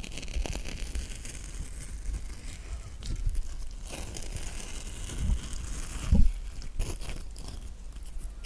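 A spoon scooping the flesh out of a halved kiwi: soft wet scraping and squelching, with two dull knocks about five and six seconds in.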